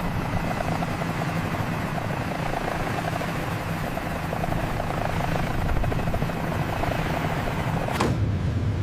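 Helicopter in flight: steady rotor and engine noise with a fast flutter, broken by a sharp click near the end.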